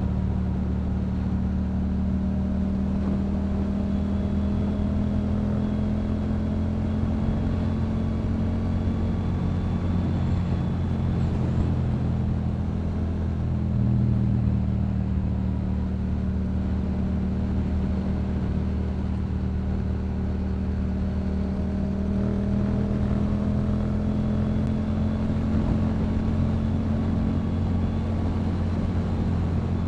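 Yamaha MT-07's 689 cc parallel-twin engine through a Yoshimura exhaust, running steadily while cruising, its pitch rising and falling a little with the throttle.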